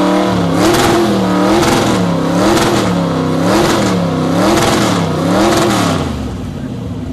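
1932 Ford Coupe hot rod's engine revved hard through open, uncapped exhaust headers, blipped about six times, roughly once a second. It then drops back toward idle near the end. Loud, metered at 115 decibels.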